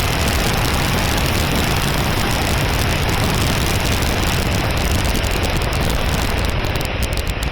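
Remote-controlled Carbon Z Cessna 150 flight sound: a steady, loud rushing noise with a heavy low rumble of wind on the microphone, with no clear motor pitch.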